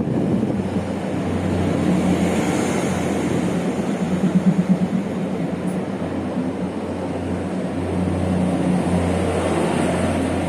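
Taiwan Railway Tze-Chiang express train running close by: a steady low hum over a wide rumble.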